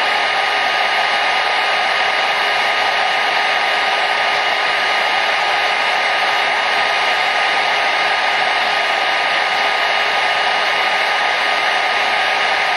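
Hair dryer blowing steadily: an even whoosh of air with a faint steady motor whine, unchanging throughout.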